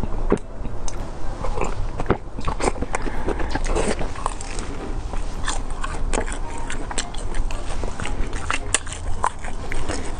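Close-miked biting and chewing of a crisp-crusted beef pie, with many irregular small crunches.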